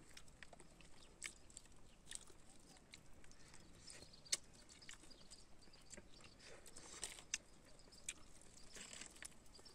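Faint chewing and biting into a crisp fried whole fish: scattered sharp crunches and mouth clicks, the loudest about four seconds in.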